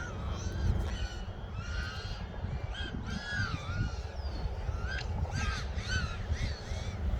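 Birds calling over and over, a quick run of short arched calls, over a steady low rumble.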